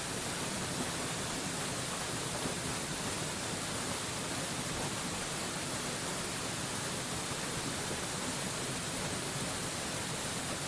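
Steady, unchanging rush of a waterfall: an even hiss spread across all pitches, strongest in the highs.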